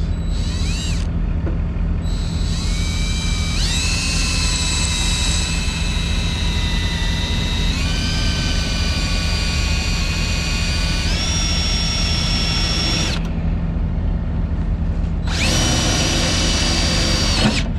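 DeWalt drill boring through a steel strip, the bit squealing in a high whine that steps up in pitch a few times. It stops for about two seconds near the end, then squeals again briefly. A steady low hum runs underneath.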